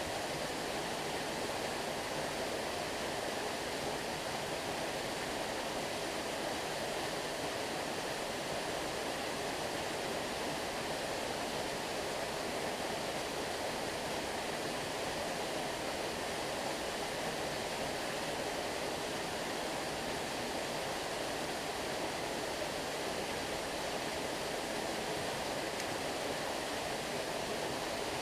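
A stream running over stones, with a steady, even rush of flowing water.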